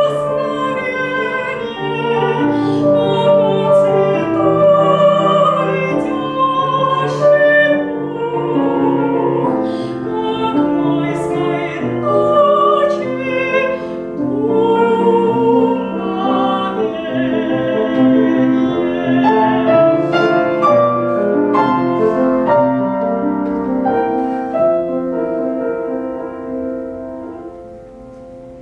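A classically trained voice singing a Russian romance with vibrato, accompanied by piano. The music fades away near the end.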